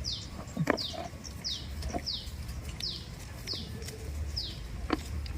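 A bird calling the same short, high, downward-sweeping note over and over, about every 0.7 seconds, seven times. A few sharp clicks come in between.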